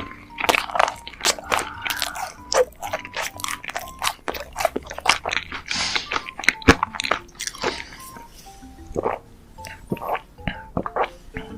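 Close-miked biting and chewing of a macaron: crisp crunching and crackling of the shell, dense at first and thinning out later, over soft background music.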